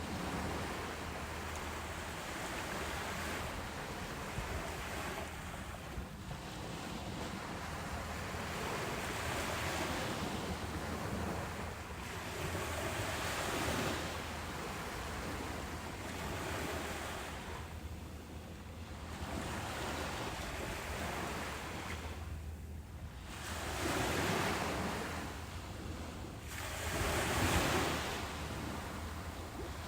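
Ocean surf: waves breaking and washing up a beach, a steady rushing hiss that swells and falls back every few seconds, with the biggest swells late on.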